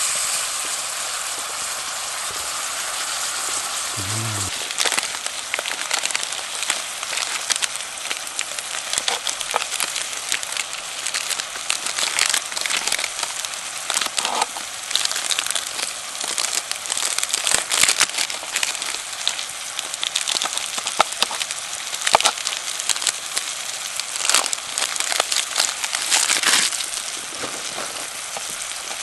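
Food frying in a pan over a campfire: a steady sizzle with frequent sharp crackles and pops.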